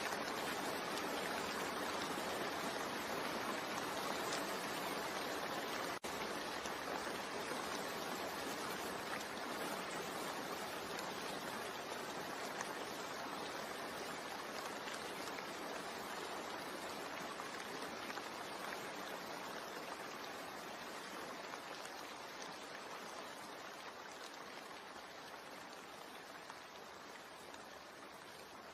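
Steady rain mixed with white noise, an even hiss with no pattern to it, that slowly fades out. There is a split-second dropout about six seconds in.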